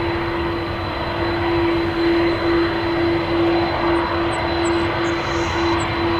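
Jet airliner engines running: a steady loud rumble with a constant droning tone that swells and dips a little, and a thin high whine.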